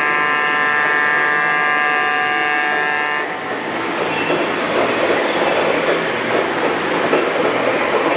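Model train horn sounding a steady multi-note chord that cuts off about three seconds in, followed by the rumble and clatter of the model train's wheels running over the track.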